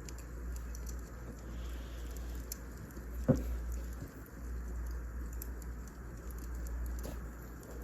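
Wood fire crackling: scattered small crackles over a low steady rumble, with one sharper pop a few seconds in.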